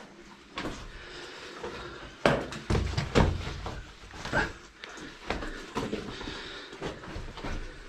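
Irregular scuffing, scraping and knocking of someone clambering over rock in a tight cave passage, with two loud handling bumps on the camera about two and three seconds in.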